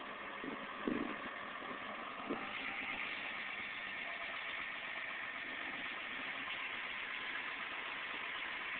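Front-end loader's diesel engine running steadily, with a few short knocks in the first couple of seconds.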